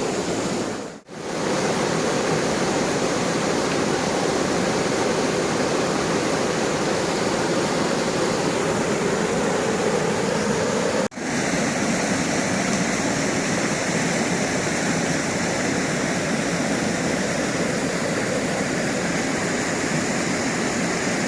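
Small river waterfall, a steady rush of falling water, with the sound dropping out briefly twice, about a second in and about eleven seconds in.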